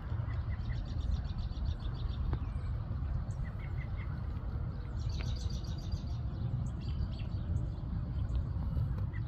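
Small birds chirping in quick trilled series, with scattered single chirps, over a steady low rumble.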